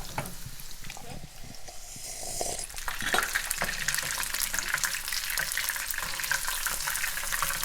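Breaded chicken nuggets frying in hot oil: a steady crackling sizzle that gets louder about three seconds in.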